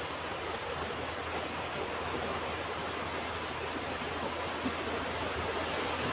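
Ocean surf washing onto a beach: a steady rushing wash of waves with no single distinct crash.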